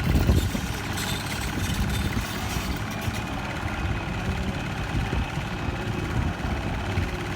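Steady low engine rumble with a rushing hiss above it; the hiss dims about three seconds in.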